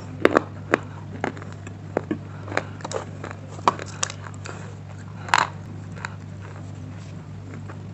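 Close-up crunching as someone bites and chews brittle pieces of slate stone: a string of short, sharp crunches, the loudest about five seconds in, falling to faint ones near the end. A steady low hum runs underneath.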